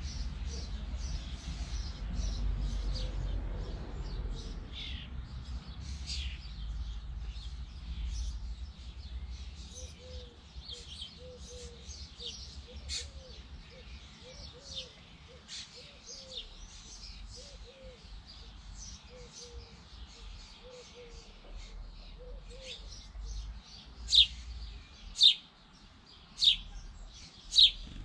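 Small garden birds chirping and twittering over and over, with a run of soft, low repeated notes in the middle and four loud, sharp chirps about a second apart near the end. A low rumble sits under the first half.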